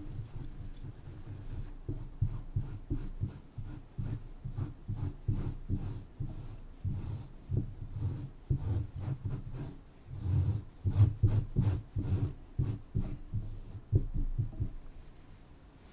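Irregular scratching and brushing strokes close against the microphone, dull and low, thickest about ten to twelve seconds in, over a steady high chirring of crickets.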